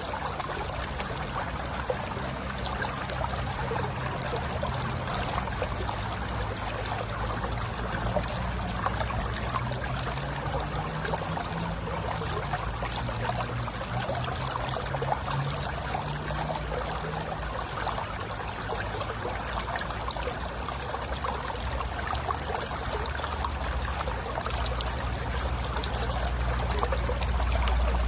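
Mountain river flowing and gurgling over rocks, a steady babble of water. A low rumble runs underneath and grows louder near the end.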